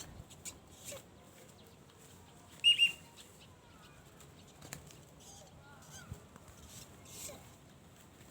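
A bird gives two short, high, loud calls in quick succession, with faint chirps from other birds around them.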